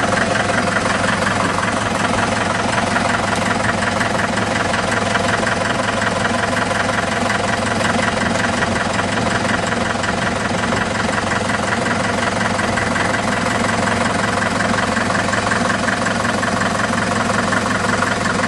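1954 Farmall Super MTA tractor's four-cylinder diesel engine idling steadily at low throttle.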